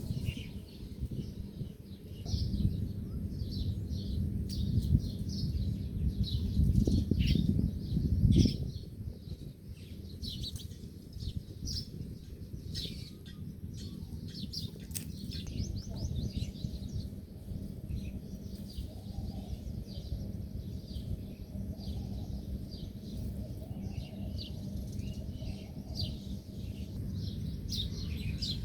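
Small birds chirping in many quick, short, high calls throughout, over a low rumbling noise that is loudest in the first eight seconds or so.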